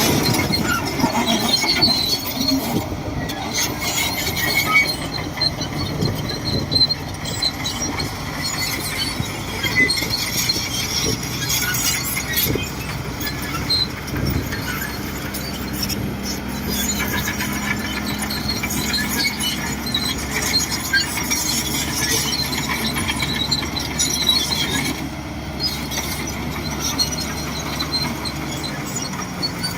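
Shantui DH17C2 bulldozer working, its diesel engine running steadily with many short, high-pitched metallic squeaks and squeals throughout.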